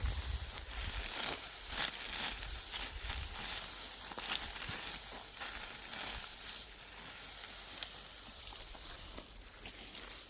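Dry crackling and rustling, made of many small irregular clicks over a hiss. A low rumble, like wind on the microphone, sits under the first three seconds.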